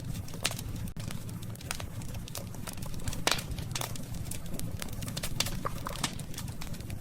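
Wood burning in a campfire, crackling and popping irregularly over the steady low rumble of the flames. The loudest pop comes a little past three seconds in.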